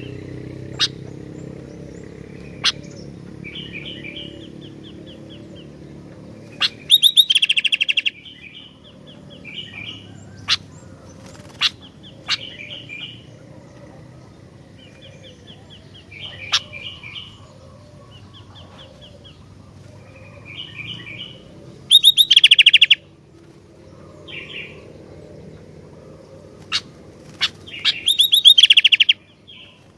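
Sooty-headed bulbul (kutilang) singing: soft warbling phrases and single sharp chirps, broken three times by loud, rapid rattling bursts about a second long.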